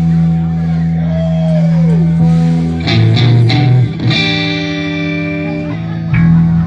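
Blues band playing live: electric guitar over a held bass note, with one guitar note bent up and back down about a second in and new chords struck around the middle. A last loud note near the end, then the music stops abruptly.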